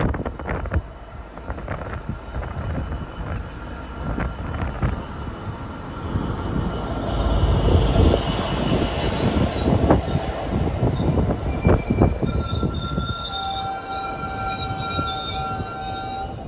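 A train running past, with rumbling and clattering wheels. About two-thirds of the way through, its wheels begin a steady, high, multi-toned squeal that holds almost to the end.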